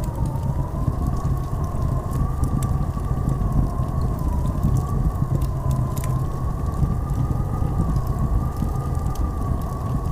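Blizzard wind howling steadily, with a whistle that slowly wavers up and down in pitch over a heavy low rumble, and faint scattered ticks.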